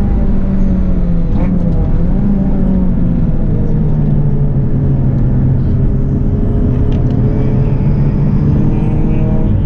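Honda Civic EK hatchback's engine running at speed on track. Its pitch dips and wavers over the first few seconds, then holds steady.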